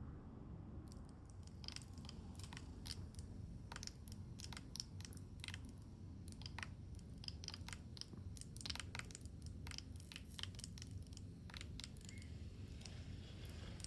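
Wooden-wick candle flame crackling: irregular small pops and clicks, a few a second, starting about a second in.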